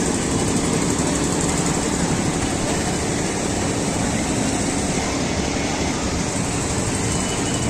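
Steady vehicle engine and traffic noise, unbroken.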